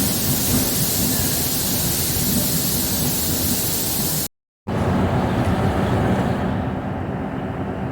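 DEMU diesel-electric multiple unit train running: a steady rumble and rushing noise, broken by a brief dropout a little past four seconds in, after which it goes on duller with less hiss.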